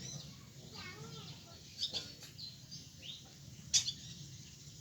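Birds chirping in short high notes with a low background hum, and one sharp click about three-quarters of the way through.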